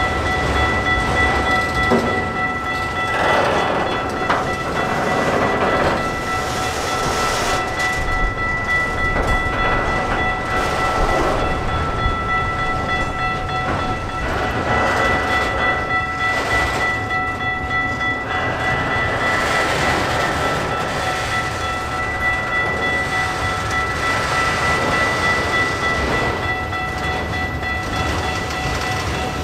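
Freight train of autorack cars rolling steadily past, with wheels rumbling and clacking over the rail joints in a rising and falling wash as each car goes by. A steady high-pitched tone runs underneath.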